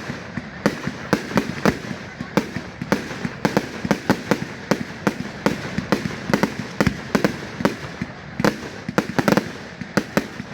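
Fireworks display: a rapid, irregular run of bangs, several a second, with no let-up.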